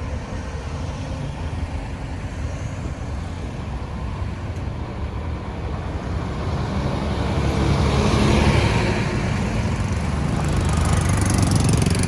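Road traffic: motor vehicle engines running with tyre and road noise, swelling louder twice in the second half as vehicles pass close.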